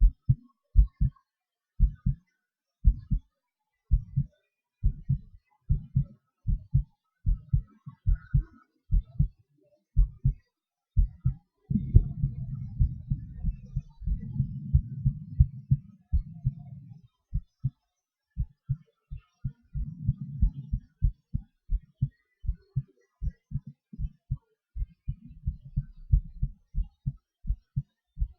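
A person's heartbeat picked up close on the chest: a regular run of low lub-dub thumps, with a continuous low rushing sound under the beats for several seconds in the middle. The beats come faster in the last third.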